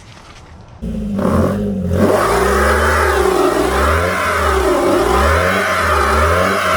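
Truck engine revving hard during a burnout. It comes in loud about a second in and holds high, its pitch rising and falling again and again, with a steady hiss over it as the tyre spins.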